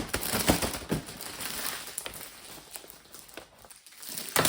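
Cardboard box and packaging of a diecast model car being handled and opened: a quick run of small clicks and rustles in the first second, softer handling noise after, and a sharper, louder rustle at the very end.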